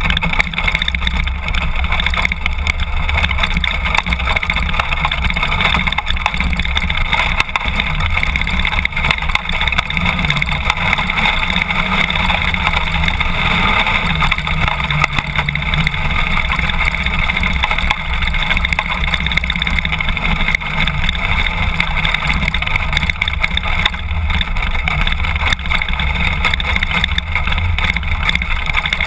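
BMW F800GS parallel-twin engine running at a steady pace with the motorcycle under way.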